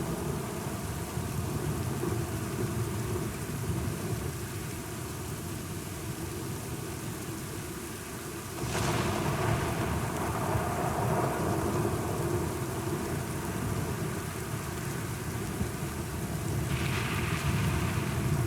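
Steady rain with low rumbling thunder. A sudden louder crack of thunder comes about halfway through, and another swell of thunder comes near the end.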